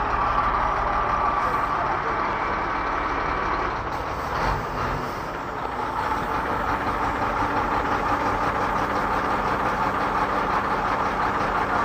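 A heavy vehicle's engine running steadily, with a brief drop in level about four seconds in.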